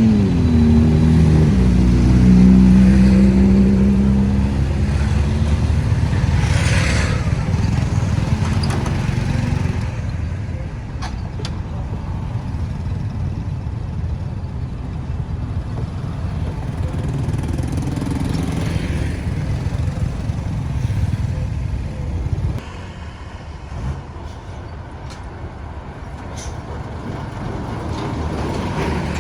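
Road traffic passing close by: a heavy vehicle's engine running loudly for the first few seconds, a vehicle whooshing past, then quieter traffic noise that steps down again later.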